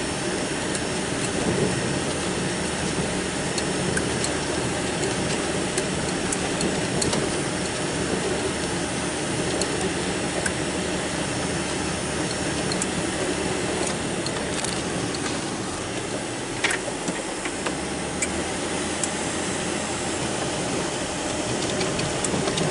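Engine of a snow-plowing vehicle running steadily while it pushes snow, with a few light clicks and knocks.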